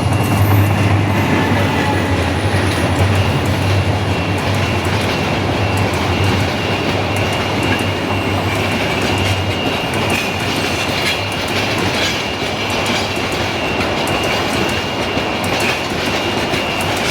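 A train running along the track: a steady rumble of wheels on rail with clickety-clack from the rail joints and a thin, steady high squeal. A deep hum under it fades out about halfway through.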